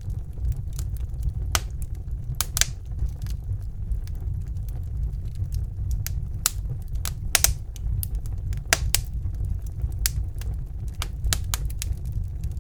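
Wood fire burning in a fireplace: irregular sharp crackles and pops over a steady low rumble of the flames, with louder pops about two and a half and seven and a half seconds in.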